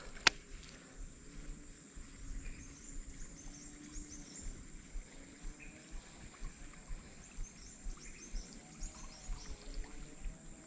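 Steady high-pitched insect drone of crickets or cicadas, with faint short bird chirps and small intermittent ticks.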